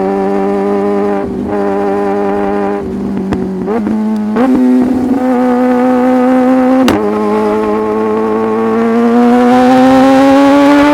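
Sport motorcycle engine running at steady high revs, the pitch dipping and sweeping back up about four seconds in, then climbing slowly near the end. A few sharp clicks cut across it, one about seven seconds in.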